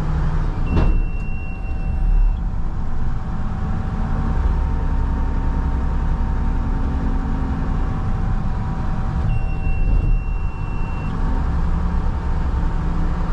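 Front-load garbage truck's diesel engine running under load with a steady hydraulic whine while the packer is cycled to compact a couch-filled hopper. Two long high-pitched beeps sound, one near the start and one about ten seconds in.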